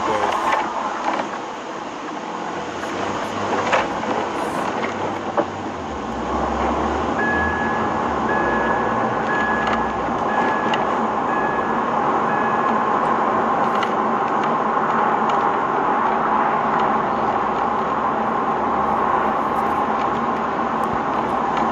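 Homing pigeons in a loft at feeding time: a dense, steady rush of wings and scuffling that grows louder about six seconds in, with a few sharp clicks before that. A run of short high beeps sounds from about seven to thirteen seconds in.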